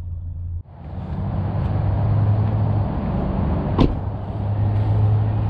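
Steady roar of nearby highway traffic, cars and trucks running past, with a low hum under it. One sharp click about four seconds in.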